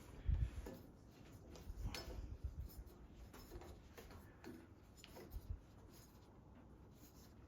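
Scattered clicks and short low thumps of a sheet-steel panel being worked through a bead roller, the loudest thump about a third of a second in.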